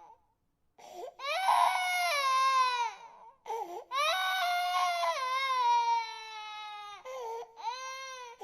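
Infant crying in long wails, each starting high and falling in pitch, with short catches of breath between them: about three cries, the first beginning about a second in.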